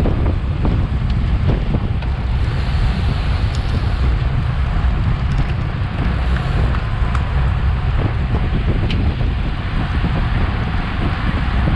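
Steady wind rushing over the microphone of a bicycle-mounted action camera at riding speed, strongest in the low rumble, with a few faint clicks.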